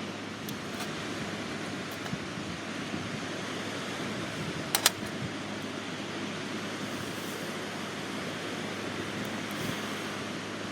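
Steady wash of surf on the shore, with wind. There is a sharp double click about five seconds in.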